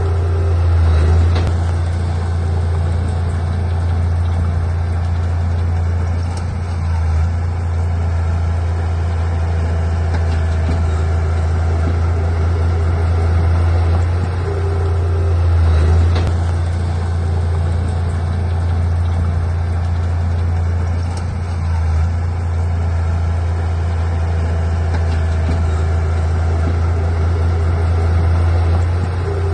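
Heavy diesel engine of earthmoving machinery running steadily, a deep low hum that swells slightly a few times.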